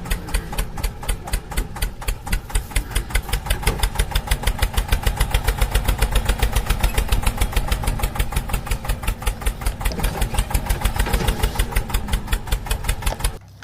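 Tractor diesel engine running with a steady, rapid thudding beat, about six beats a second. It starts and cuts off abruptly.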